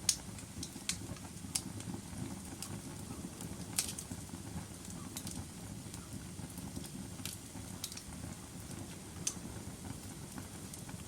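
Log fire crackling in a fireplace: sharp pops and snaps at irregular intervals, the loudest right at the start, over a steady low rumble of burning wood.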